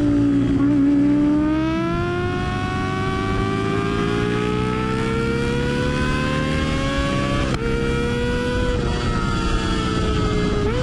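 Kawasaki ZX25R's 250 cc inline-four through a Yoshimura R77-style slip-on exhaust, accelerating under way: the engine note climbs steadily for several seconds, drops sharply with an upshift about seven and a half seconds in, then holds nearly steady.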